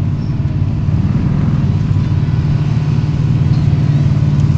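Formula Offroad buggy's engine running steadily at low revs, a loud, rough low rumble with a fast firing beat and no revving, while the car rolls slowly.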